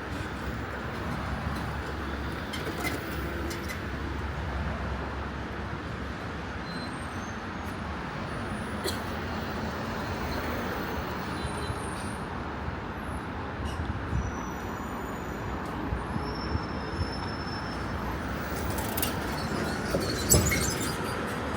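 Steady street traffic noise from passing vehicles, with a few light clicks and a sharp knock near the end.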